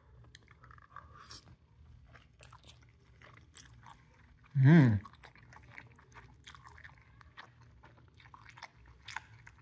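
A person chewing a mouthful of stir-fried ramen noodles and beef, with small wet chewing clicks throughout. About halfway through comes one short, loud hum of the voice, falling in pitch.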